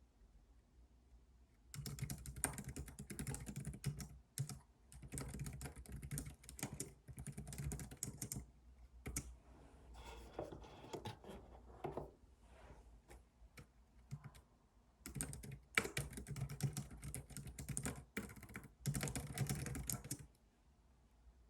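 Computer keyboard being typed on in fast runs of keystrokes with short pauses. The typing starts about two seconds in, thins out in the middle and stops near the end.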